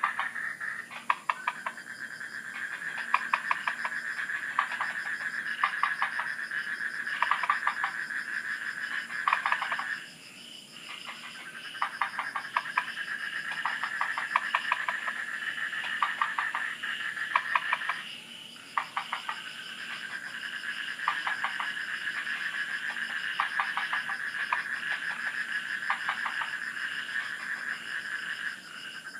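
Night chorus of frogs calling in trains of rapid clicking pulses every second or two, over a steady high-pitched trill that drops out briefly twice.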